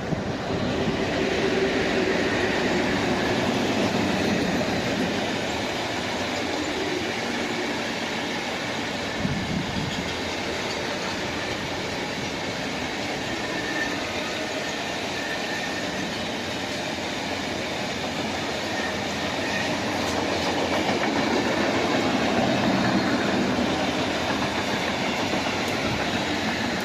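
Freight train hauled by the ET41 electric locomotive ET41-010 rolling past at speed: a steady rush of wagon wheels on the rails with clattering over rail joints and some faint wheel squeal.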